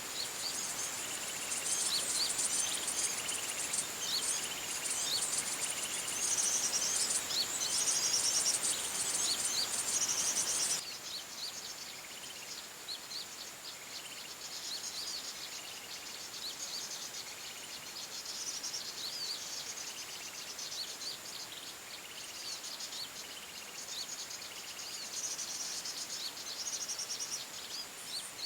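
Many small forest birds chirping and calling in quick, high-pitched notes over a steady high insect buzz. About a third of the way through the whole sound drops suddenly in level, then the chirping goes on more softly.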